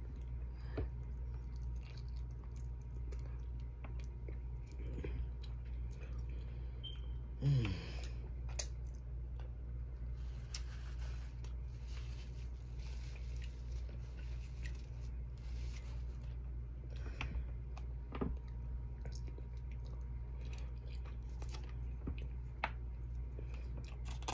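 A person chewing and eating baked chicken, with wet mouth sounds and small clicks, over a steady low hum. About seven and a half seconds in there is one short, louder vocal sound that falls in pitch.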